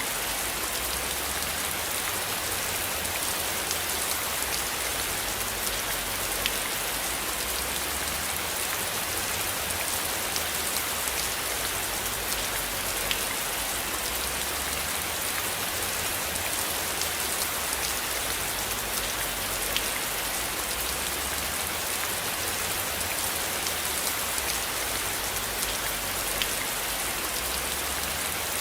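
Steady rain falling, an even hiss of many drops with a few sharper single drop ticks standing out now and then.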